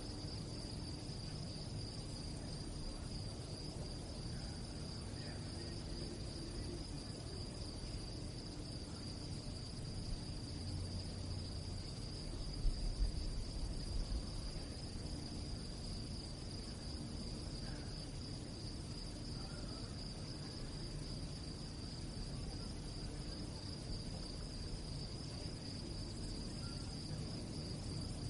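Crickets chirping at night in a steady, unbroken chorus of high trilling. A brief low rumble comes about halfway through.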